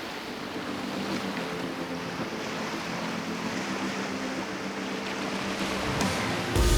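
Steady rush of wind and sea with a faint low hum under it; music comes in loudly near the end.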